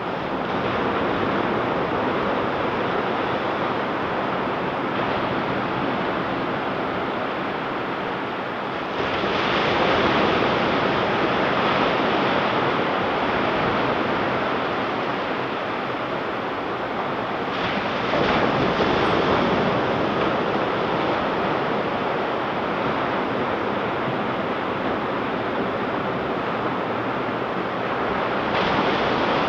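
Ocean surf: waves breaking and washing up the beach in a steady rushing wash, with louder breakers about nine seconds in, about eighteen seconds in, and near the end.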